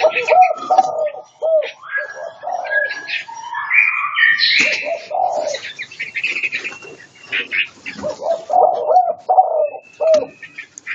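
Caged songbirds singing and calling in a busy, varied stream of whistled notes, some climbing in steps and others short and looping lower down.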